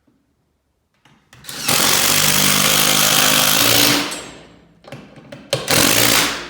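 Power driver driving bolts into the wooden header board to mount a garage door torsion spring's center bearing bracket. There is one long run of a bit more than two seconds, then a shorter burst near the end.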